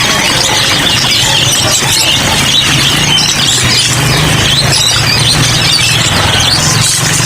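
Many caged songbirds chirping and singing over one another without pause, as in a bird shop, over a low steady hum.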